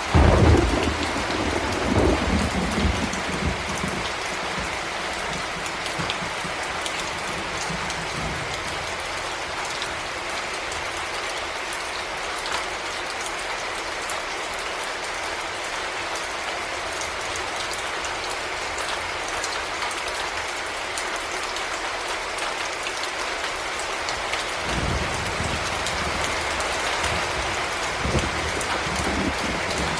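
Heavy rain falling steadily in an even hiss. Low thunder rumbles at the start and again near the end.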